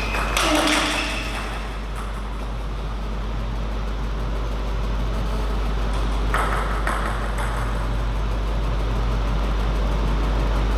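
Steady low hum and background noise of a table tennis hall, with two short louder bursts of noise, one about half a second in and one about six seconds in.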